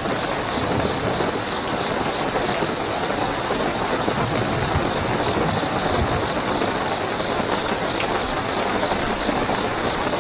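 Steady heavy rainfall with scattered sharp drop ticks, and a continuous high-pitched cricket trill running under it.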